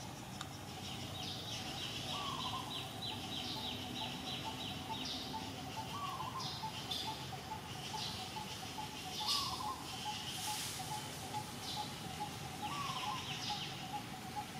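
Outdoor birdsong. A short rising whistle repeats about every three to four seconds over a steady, fast pulsing note, with rapid chattering trills higher up.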